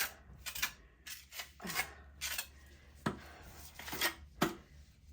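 Trowel scraping rapid-set repair mortar in a rapid run of short rasping strokes, with a few sharp clicks of the blade about three and four and a half seconds in.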